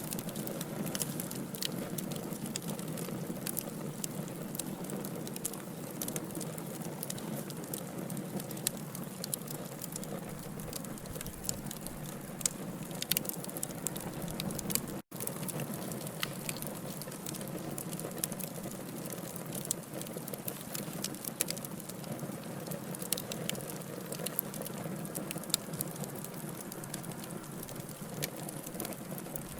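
Wood fire burning in a fireplace: logs crackle and pop in frequent sharp clicks over a steady hiss. The sound cuts out for a split second about halfway.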